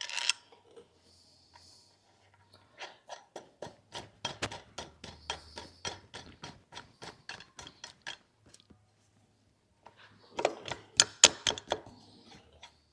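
Light, quick taps, about four a second for several seconds, as the new rear crankshaft seal on a 7.3 Power Stroke diesel is tapped into place. A short burst of louder taps follows near the end.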